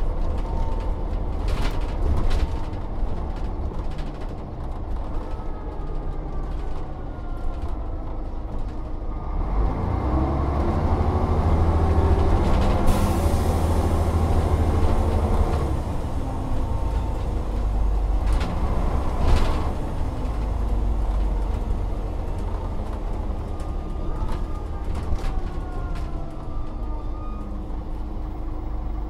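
Volvo Olympian double-decker bus's diesel engine running, building up as the bus pulls away and accelerates from about ten seconds in. A gear whine glides in pitch, with several sharp knocks and rattles from the bus.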